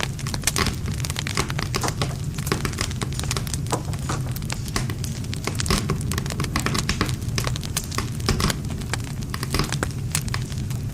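Wood campfire crackling, with irregular sharp pops and snaps of burning wood over a steady low rumble of the flames.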